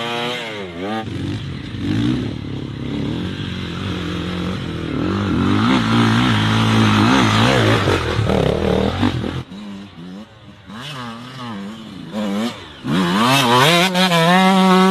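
Enduro dirt bike engines revving hard and unevenly, pitch rising and falling again and again, the throttle blipping of bikes fighting for grip in slick mud. The engines drop away about two-thirds of the way in, then one revs up high near the end.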